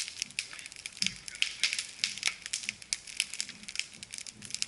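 Newly lit wood campfire crackling, with many quick, irregular sharp snaps as the kindling of bark, dry leaves and grass catches.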